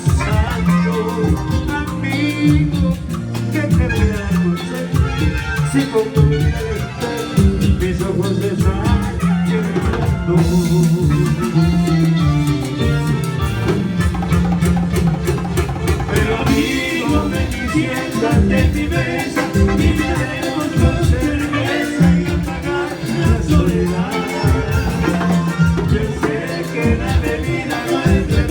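Latin dance music with a band playing, drums and percussion keeping a steady beat, and some singing.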